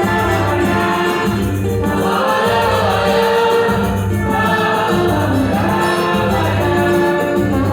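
Live samba band playing, with voices singing without clear words over the accompaniment.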